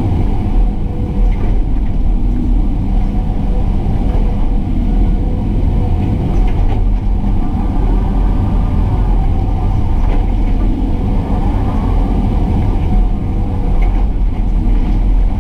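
Excavator's diesel engine running steadily and loudly.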